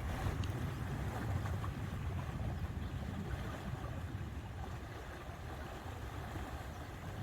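Outdoor wind buffeting the microphone with a steady low rumble over an even hiss.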